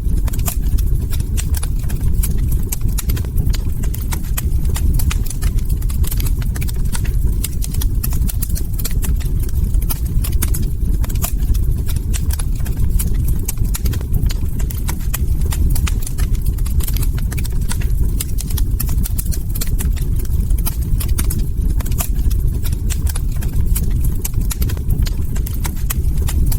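Log fire burning steadily, with dense irregular crackles and pops of burning wood over a constant low rumble.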